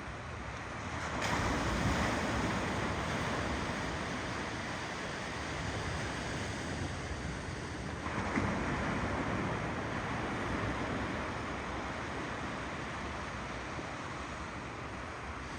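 Ocean waves rolling in, one surge about a second in and another about halfway through, each washing in and slowly fading into a steady surf.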